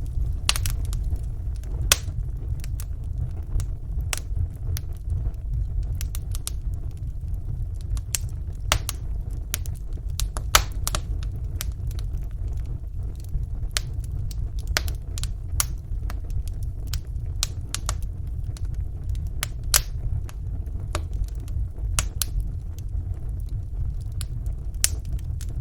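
Wood fire burning in a fireplace: irregular small crackles and pops of burning logs over a steady low rumble, with a few louder pops, one about ten seconds in.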